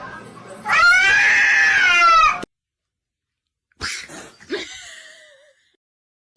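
A domestic cat gives one long, loud yowl lasting nearly two seconds, rising and then falling in pitch. After a break, a fainter, shorter stretch follows with a thin wavering cry.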